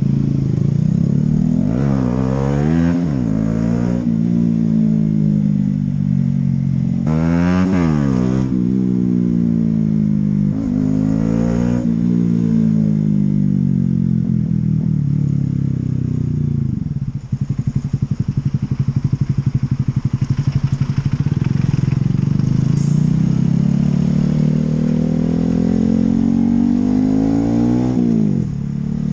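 Honda CB125R's single-cylinder four-stroke engine under way, revs climbing and dropping back several times in quick succession as it works through the gears. About halfway the engine eases off, then builds steadily again before dropping near the end.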